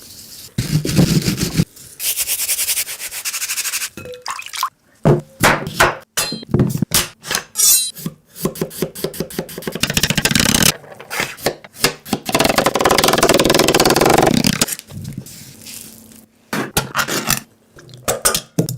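Kitchen food preparation: irregular scraping and rubbing with bursts of quick sharp cuts or taps, and several longer scraping stretches of one to two seconds.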